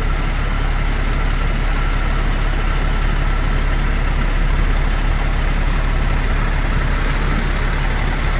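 Heavy truck engine idling with a steady, even low rumble.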